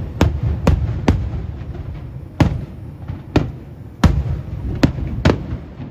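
Aerial firework shells bursting overhead in an irregular run of about eight sharp bangs, over a constant low rumble.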